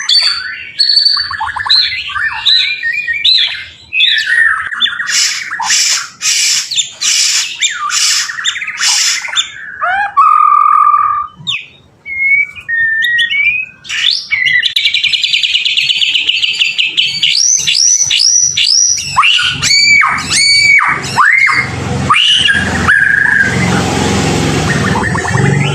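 White-rumped shama singing a long, varied song without a break: clear whistles, fast trills and a buzzy rattle, then a run of quick downward-sweeping notes in the second half.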